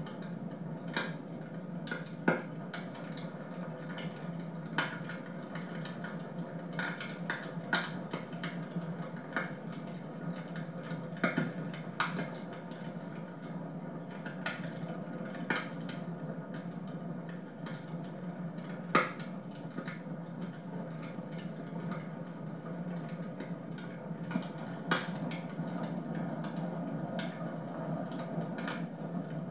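Wood fire burning in a fireplace: a steady low rush with irregular sharp crackles and pops, a few of them louder snaps.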